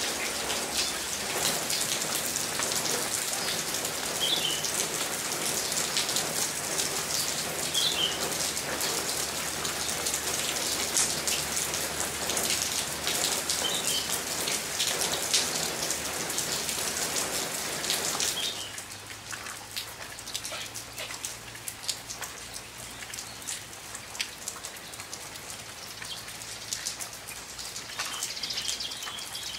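Heavy rain pattering and splashing on surfaces, with a bird giving a short chirp a few times. About 18 seconds in the sound drops sharply to a much fainter patter of scattered drops.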